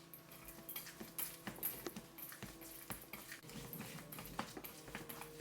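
A bowl of ground-turkey and rice filling being mixed: a run of light, irregular clicks and taps.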